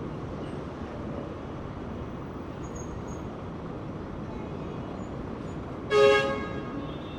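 Steady rumble of traffic on a busy street, with one short, loud vehicle horn honk about six seconds in.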